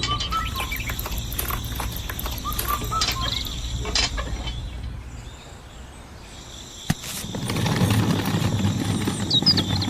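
Birds chirping outdoors over a steady low hum. The hum fades about halfway through, there is a sharp click, and then a rougher rumbling noise builds, with more chirps near the end.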